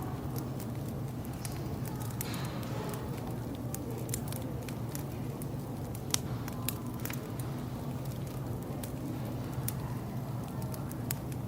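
Wood fire crackling with scattered sharp pops, one louder pop about six seconds in, over a steady low hum.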